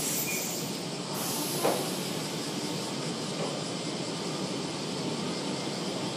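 Iyo Railway 700 series electric train moving slowly along the station platform, a steady rumble of wheels on rails, with one short sharp sound about two seconds in.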